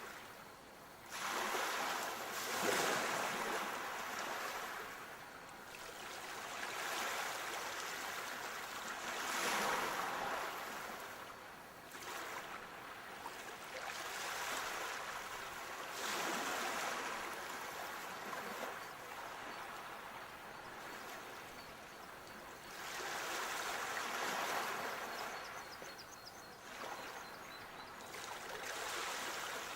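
Sea waves breaking and washing up the shore, the surf rising and falling in surges every several seconds.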